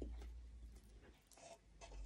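Faint chewing and small mouth sounds of someone eating food by hand, heard mostly in the first second, over a low steady hum.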